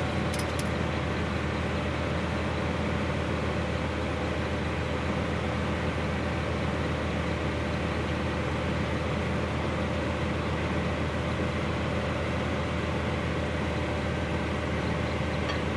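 An engine running steadily in the background, a constant even hum with no change.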